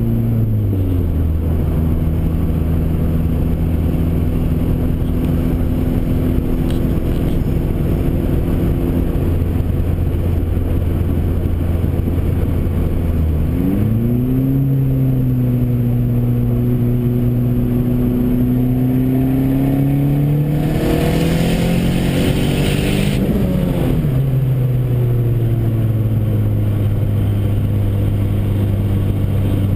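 Dodge SRT-4's turbocharged 2.4-litre four-cylinder under way. It runs at a steady note, then about 13 seconds in it accelerates hard, with the engine pitch climbing for about ten seconds and a hiss joining in near the top. It then drops back to a steady lower note as the throttle is lifted.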